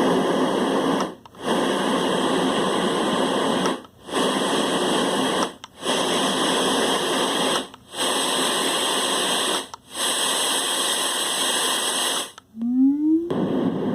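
LectroFan white noise machine playing steady white noise, a loud even hiss that drops out briefly five times. Near the end the hiss stops for about a second and a short rising electronic tone sounds from the machine before the noise returns.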